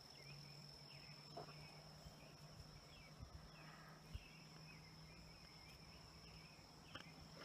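Faint outdoor ambience: a steady high-pitched insect trill with scattered faint bird chirps over a low steady hum.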